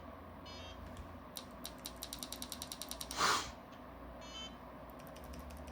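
A quick run of small mechanical clicks, about eight a second for nearly two seconds, followed straight after by a short breathy puff, the loudest sound. Two brief faint squeaks come before and after.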